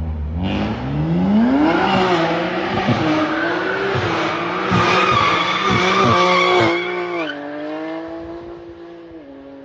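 Sports car engine revved hard under acceleration: the pitch climbs steeply in the first two seconds and stays high and wavering, with several short cracks. About seven seconds in the note drops suddenly to a steadier lower pitch and fades near the end.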